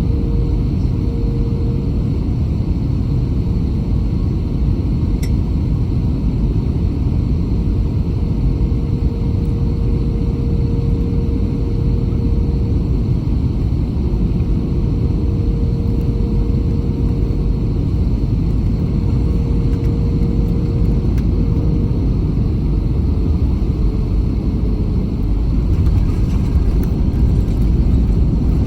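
Cabin noise of an Airbus A320 on approach: a steady low rumble of engines and airflow, with a steady hum that fades out about three-quarters of the way through. Near the end it grows louder, with a few short knocks.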